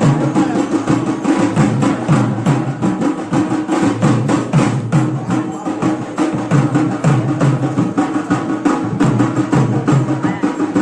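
Drums and percussion playing a fast, steady rhythm of dense, closely spaced strokes.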